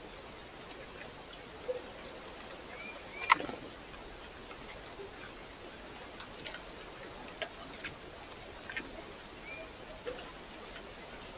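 Small birds at a feeder: scattered sharp taps, one much louder about a third of the way in, and a few short rising chirps over a steady hiss.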